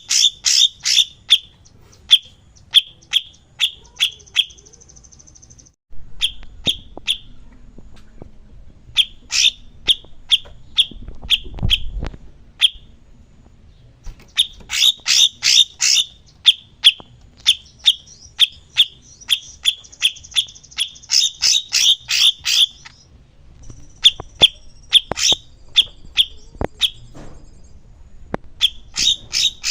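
Songbird singing loud, rapid runs of sharp repeated chipping notes, about four or five a second, broken by short pauses, with a higher buzzy trill mixed in twice.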